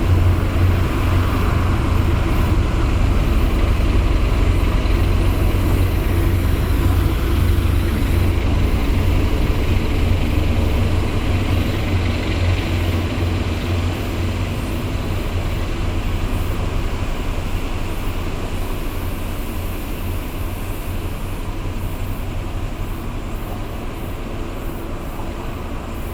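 Diesel engines of a large harbour tugboat running underway: a steady low drone that slowly fades as the boat moves off.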